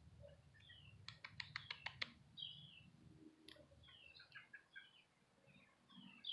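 Small birds chirping faintly in short, falling notes. About a second in comes a quick run of about eight sharp clicks.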